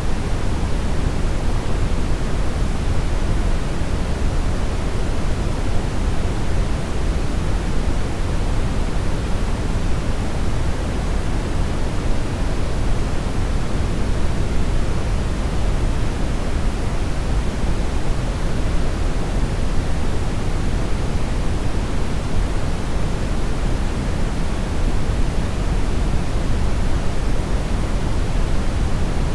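Steady synthetic brown noise: a continuous even rumbling hiss, heaviest in the low end and fading toward the treble, with no change over time.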